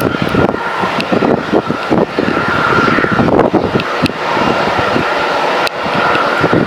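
Jet airliner engines running, a steady high whine over a rough, uneven rumble.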